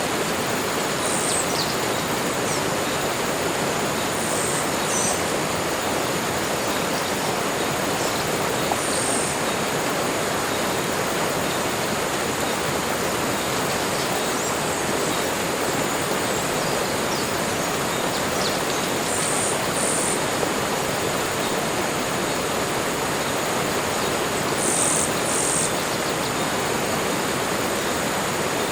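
Tropical forest ambience: a steady rushing hiss with a thin, high insect buzz held over it, and short high bird chirps every few seconds, several in quick pairs.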